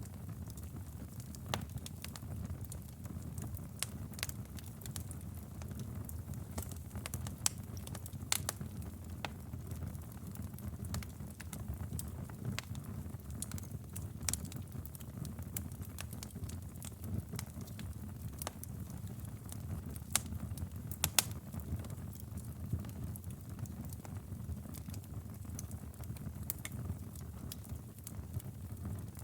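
Wood fire in a fireplace crackling: a steady low rush of flame with irregular sharp pops and snaps, a few louder ones about a third of the way in and again past two-thirds.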